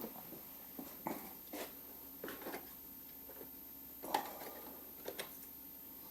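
Scattered light clicks and rustles of small parts and packaging being handled and rummaged through, with the sharpest click about four seconds in and two quick clicks about a second later.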